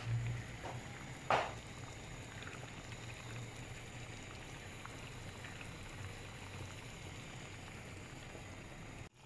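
Chicken liver and gizzards simmering in a brown sauce in a frying pan, a steady faint bubbling with small crackles over a low hum. A single sharp knock comes about a second in.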